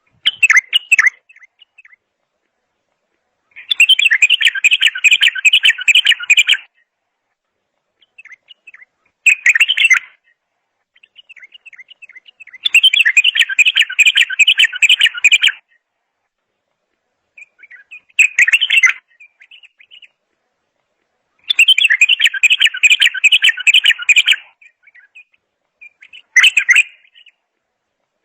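A songbird singing loud phrases: four dense, rapid warbling runs of about three seconds each, alternating with four short bursts, each phrase followed by a silent gap.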